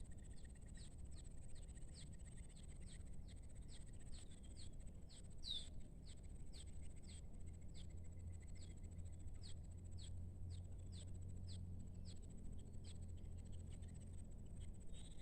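A bird calling in short high chirps, each dipping slightly in pitch, repeated about twice a second. A steady thin high whine and a low rumble run underneath.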